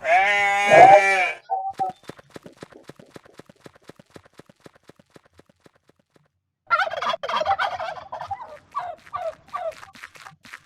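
Goat bleating: one long wavering bleat at the start, then a run of shorter, broken bleats about seven seconds in, with faint clicking between them.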